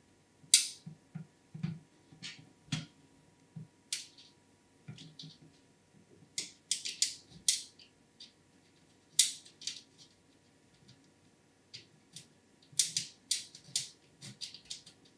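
Irregular sharp clicks and taps of hard parts and tools being handled while fitting an AIO liquid cooler into a PC. Some come singly, some in quick clusters of several.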